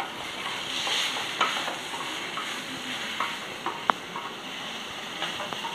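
Chilli chicken pieces with capsicum sizzling in a steel pot while a wooden spatula stirs them, with scattered scrapes and one sharp click about four seconds in.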